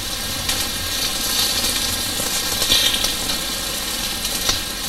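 Pot sticker dumplings sizzling in a little very hot corn oil in a skillet as they are laid in one at a time, a steady frying hiss with a few faint ticks, over a steady low hum.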